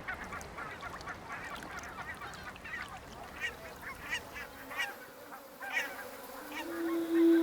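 Many water birds calling over one another in quick, short repeated calls. Near the end a steady low musical note comes in and grows louder.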